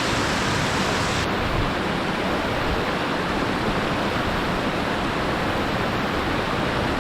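Steady rush of water pouring over a creek spillway.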